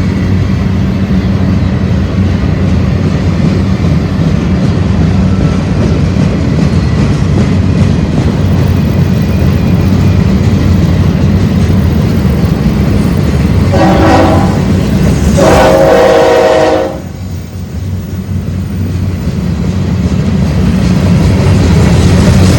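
Freight train rumbling steadily as its cars roll past. About fourteen seconds in, a locomotive air horn sounds twice, a short blast then a longer one. Just after the horn the rumble drops off briefly, then builds again.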